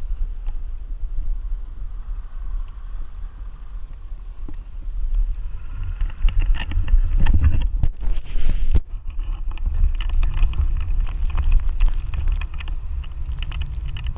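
Blizzard wind buffeting the microphone: a steady low rumble that grows louder for a few seconds around the middle.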